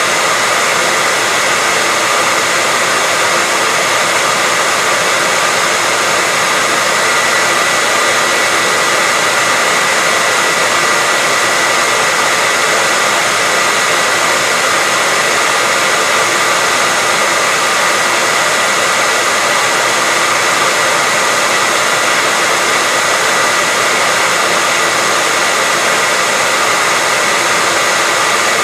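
Hair dryer running steadily: an even, constant rush of air with a steady high whine from its motor, unchanging throughout.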